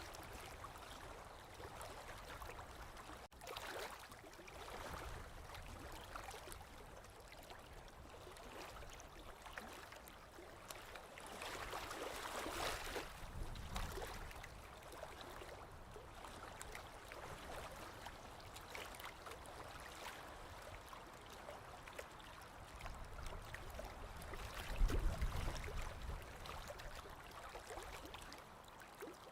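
Small waves lapping on a lake shore, swelling and easing every few seconds. The loudest, deepest surge comes near the end.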